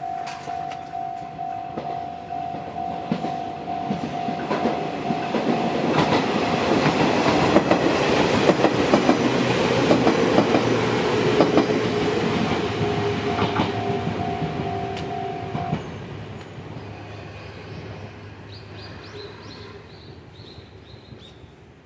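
Japanese level-crossing warning bell ringing in a rapid, steady repeat while an Izuhakone Railway Sunzu Line electric train approaches and passes, its wheels clacking over the rail joints. The train's whine drops slightly in pitch as it goes by. The bell cuts off about two-thirds of the way through and the train's sound fades away.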